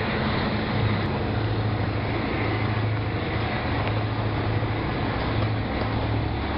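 Freight train passing close by: a steady, low diesel engine drone from the locomotives over the continuous rumble of container flatcars rolling along the track.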